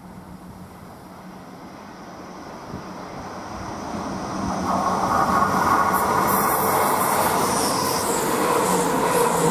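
Hull Trains Class 180 Adelante diesel multiple unit approaching and running through the station, its engines and wheels growing steadily louder as it nears. It is loudest from about five seconds in as it passes close by, with high-pitched wheel noise over the top from about six seconds in.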